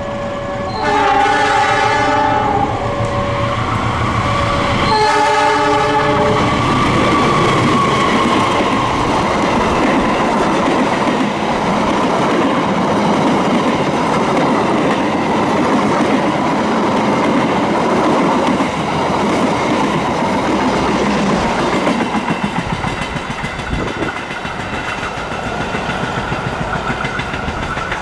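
Gajayana express train passing: the diesel locomotive sounds its horn twice, about a second in and again about five seconds in, then the passenger coaches run close by with a loud steady rumble and clickety-clack of wheels over the rail joints. The sound eases in the last few seconds as the train draws away.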